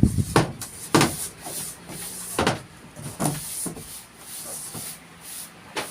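Carpentry knocks: about five sharp, irregular knocks and bumps spread over a few seconds as a piece of building work is handled and fitted.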